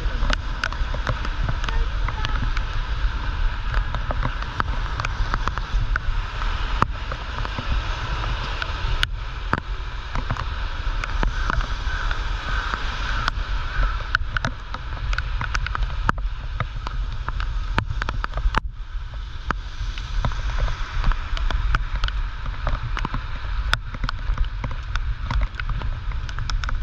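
Typhoon rain falling steadily, with wind rumbling heavily on the microphone and many small sharp taps scattered all through.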